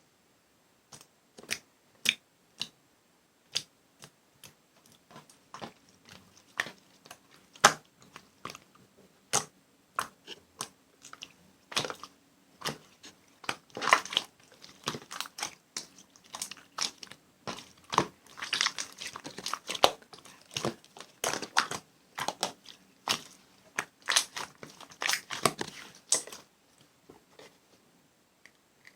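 Avalanche slime being squeezed and stretched by hand, giving irregular sticky clicks and crackling pops. They come thicker and louder in the second half and stop a couple of seconds before the end.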